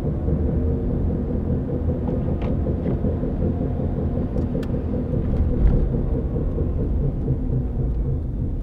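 A 1993 Honda Civic EX coupe giving off a steady low rumbling drone, the noise that the owner thinks is a bad bearing, with a few faint ticks over it.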